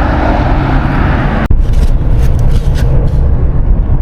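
Car driving: a loud low road rumble with a hiss of wind and road noise over it. The hiss cuts off suddenly about one and a half seconds in, leaving the low rumble and a few faint clicks.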